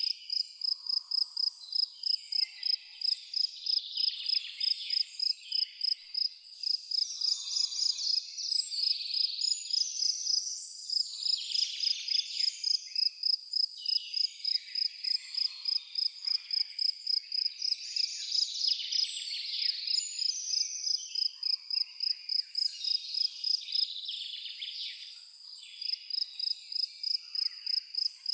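An insect chirping at one high pitch in a steady rhythm, about three to four chirps a second, pausing briefly near the end, over a chorus of birds singing.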